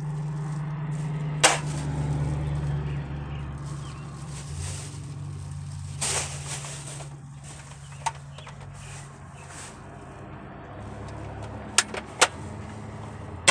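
Short sharp clicks of a toy BB rifle being handled and loaded with BBs, loudest about a second and a half in and twice in quick succession near the end, over a steady low hum.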